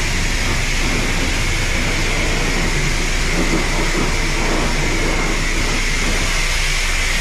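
Self-serve car wash high-pressure wand spraying water onto a car: a steady, loud hiss of spray.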